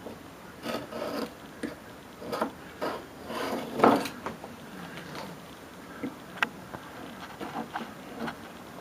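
Irregular scraping and rubbing strokes of a hand tool on the wooden window frame, a few with a sharp click, as old caulk residue is cleaned off.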